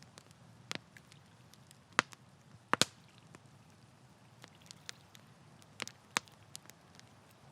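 Wood campfire crackling: irregular sharp pops and snaps over a faint low hiss of burning, with a loud pop about two seconds in and a quick double pop soon after.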